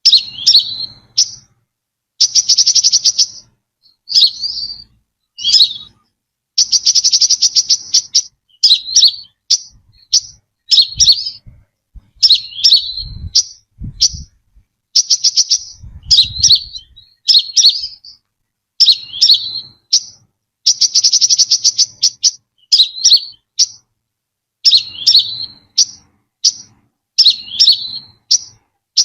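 Brown-throated sunbird calling over and over: short, sharp, twisting notes about once a second. These are broken by a few buzzy trills about a second long.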